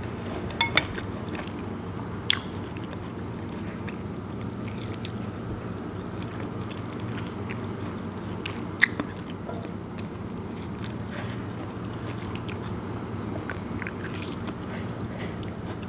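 Close-miked mouth sounds of chewing and biting into sour star gooseberry (mayom) salad, with a few sharp crisp clicks, the loudest near the start, about two seconds in and about nine seconds in, over a steady low hum.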